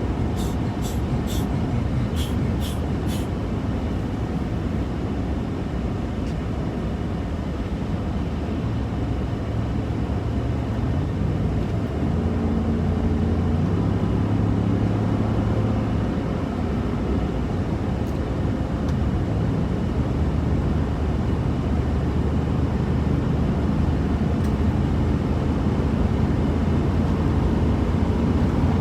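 Truck cabin noise on the move: a steady road and engine drone, with the engine note rising and shifting from about ten seconds in. A handful of sharp clicks in the first three seconds.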